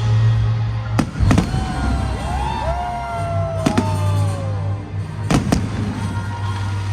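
Fireworks going off in sharp bangs, several in quick pairs, over music playing throughout.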